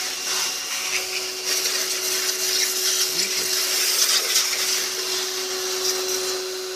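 Pressure washer running, its pump whining at one steady pitch under the hiss of the water jet spraying onto a car, the hiss swelling and easing as the spray moves.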